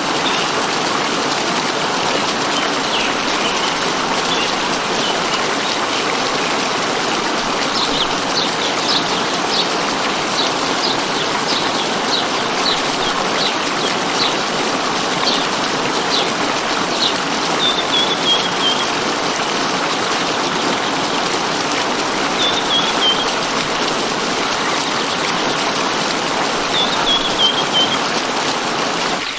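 Steady rush of running water with a small bird calling over it: a run of short high notes about one and a half a second, then a few brief descending trills.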